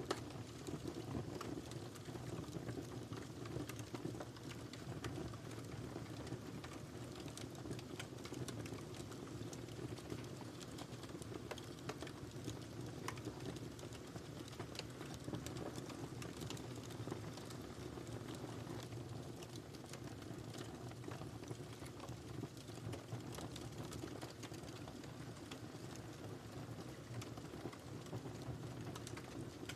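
Wood fire crackling in a fireplace: a steady low rumble of burning with frequent small pops and snaps scattered throughout.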